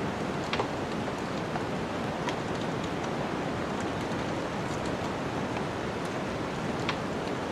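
Wood fire crackling, with scattered sharp pops over a steady rushing snowstorm wind. The loudest pops come about half a second in and near the end.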